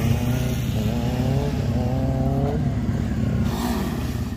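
Honda CB650 four-cylinder motorcycle engine held at steady moderate revs during a slow wheelie, its pitch wavering slightly as the throttle is worked.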